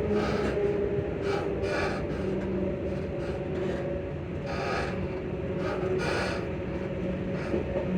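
ScotRail Class 334 electric multiple unit's traction motors whining in steady tones under way. The motors' pitch shifts slightly now and then, and short bursts of hiss from the running gear recur about once a second.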